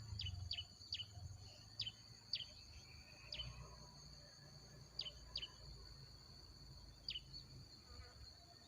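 Short, high bird chirps that slide downward, about ten at irregular spacing, over a steady high-pitched insect drone.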